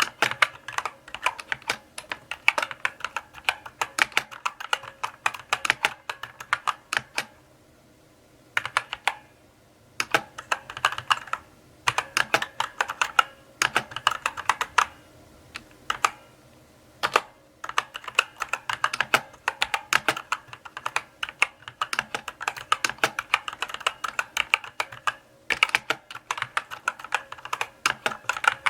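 Typing on a mechanical keyboard: runs of key clicks at a steady, unhurried pace, broken by a few short pauses.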